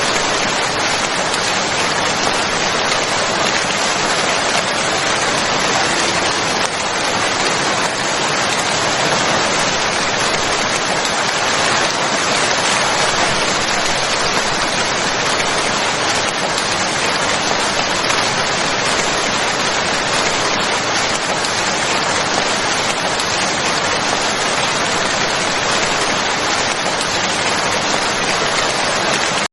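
Steady rain falling, an even unbroken hiss with no distinct drops, thunder or other sounds standing out.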